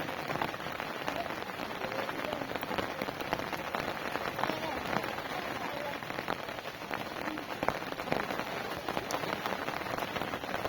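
Heavy rain falling steadily, with many individual drops ticking through a dense, even hiss.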